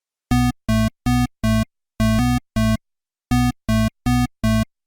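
Short synthesized electronic notes, all at the same pitch and rich in overtones, played in quick rhythmic groups of three or four.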